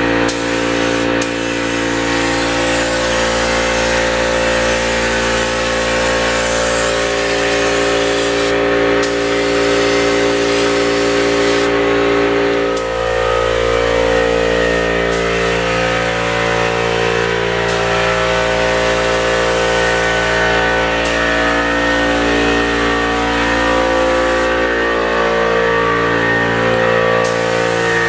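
A paint spray gun hisses with compressed air while an air compressor runs steadily. The hiss drops out briefly a few times when the trigger is released.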